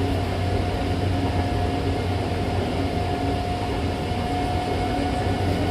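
Hankyu train running at speed, heard from inside the car by the doors: a steady low rumble of wheels and running gear with a thin, steady whine over it.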